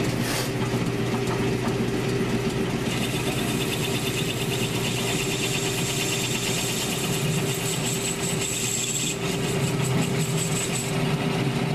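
A 1942 South Bend metal lathe running with a steady motor and gear hum. From about three seconds in, a rhythmic high hiss joins it as the cutting tool takes a cut across the turning work, and it eases off near the end.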